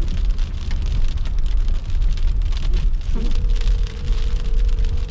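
Car driving in a snowstorm: a steady low rumble of engine and road with many small ticks of precipitation striking the car. A steady whine comes in about three seconds in and lasts about two seconds.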